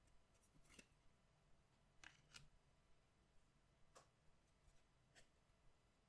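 A handful of faint, short clicks and light scrapes, irregularly spaced, from hands handling collectible cards and their packaging.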